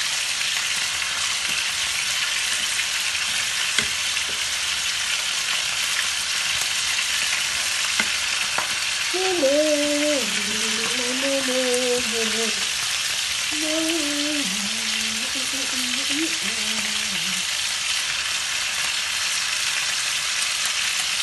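Sliced onions and mushrooms sizzling steadily in a simmering sauce in a pan, stirred with a wooden spoon.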